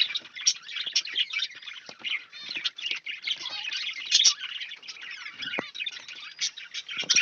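A room of caged budgerigars and finches chirping and chattering at once, a dense, continuous flock chatter with some sharper, louder chirps.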